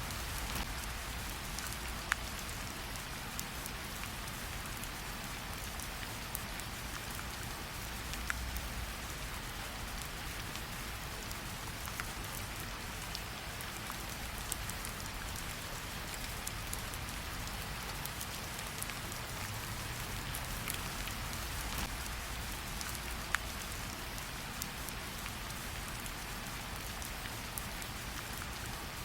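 Steady rain hiss pattering on a surface, with a few sharp campfire pops several seconds apart.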